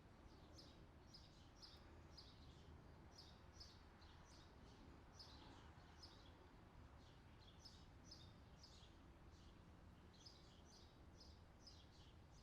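Faint birdsong: a steady run of short, high chirping notes, two or three a second, over a low background hum.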